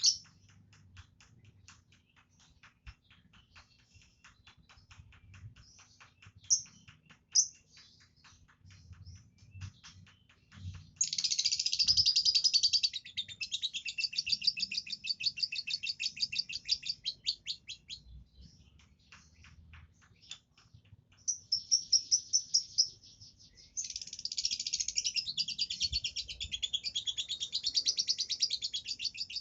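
Lovebird chattering in rapid high chirps: scattered and quieter for the first ten seconds, then long unbroken runs lasting several seconds. This is the nonstop chatter that keepers call 'konslet'.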